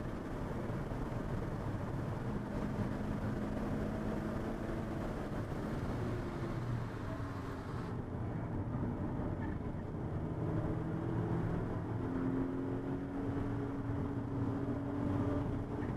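Car engine running hard on a racetrack, heard from inside the cabin, its pitch sliding up and down with throttle and gear changes over steady road and wind noise.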